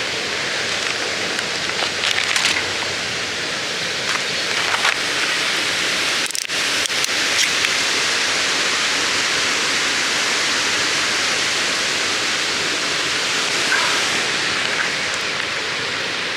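Steady rushing of running water, like a weir or waterfall, with a short drop-out about six seconds in.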